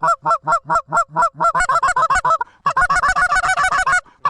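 Goose call blown in a rapid, loud run of short honks and clucks, about seven notes a second, broken twice briefly, calling to geese in flight to turn them toward the decoys.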